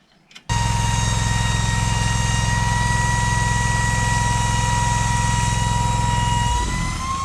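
Tractor engine running steadily, with a steady high whine over the engine note. It starts abruptly about half a second in and cuts off near the end.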